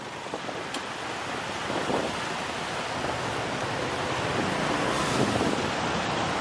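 Wind rushing over the microphone of a moving motorbike, a steady noisy rush that grows slightly louder, with road and traffic noise underneath.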